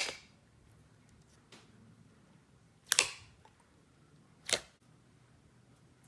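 Clear slime with fishbowl beads being stretched and squished, giving three sharp pops: one right at the start, one about three seconds in and one about a second and a half after that.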